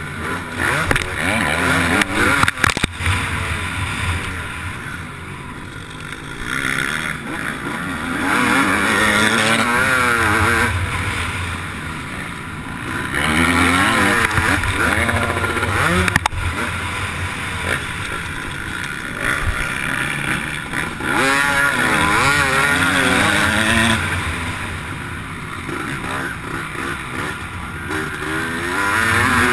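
Motocross bike engine revving up and falling off again and again as the bike accelerates and backs off around the track, heard on board with wind rush. A few sharp knocks about two to three seconds in.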